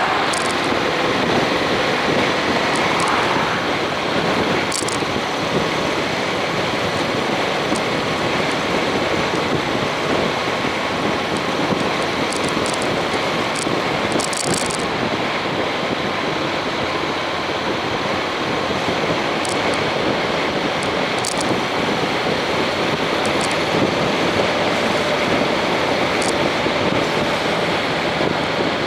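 Honda X-ADV motorcycle riding at a steady speed: wind rushing over the action camera's microphone, with the engine's steady note running underneath.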